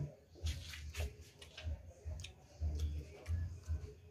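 A person chewing and smacking while eating stewed pork and rice by hand: irregular wet mouth clicks over soft low thuds.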